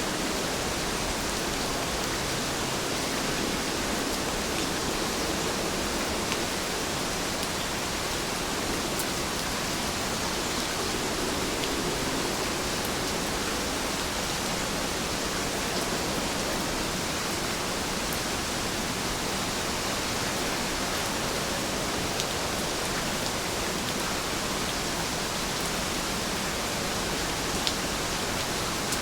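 Steady rain falling, an even hiss with a few faint single drop ticks.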